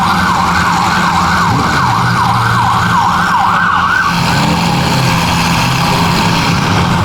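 Vehicle siren in a fast yelp, rising and falling about two and a half times a second, that cuts off about four seconds in, over engines running.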